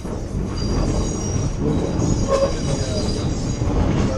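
Passenger train rolling along the track, heard from on board: a steady low rumble of wheels on rails with thin, high wheel squeal above it.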